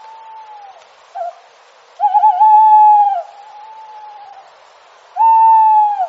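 An owl hooting: two loud drawn-out hoots about three seconds apart, each opening with a quaver and then held on one pitch, each trailed by a fainter echo-like copy.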